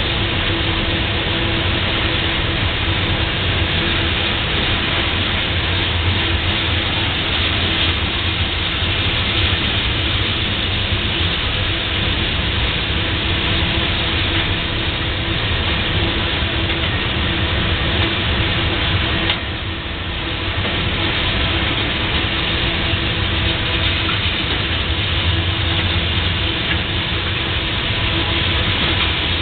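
Tank cars of a slow-moving freight train rolling past: a steady rumble of steel wheels on rail with a faint steady hum, dipping briefly about nineteen seconds in.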